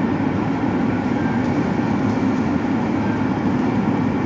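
Steady, loud rumble of running machinery, even throughout with no knocks or changes.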